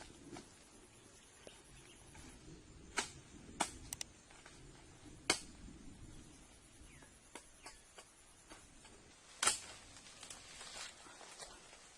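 A handful of sharp knocks or snaps over faint rustling. The loudest comes near the end.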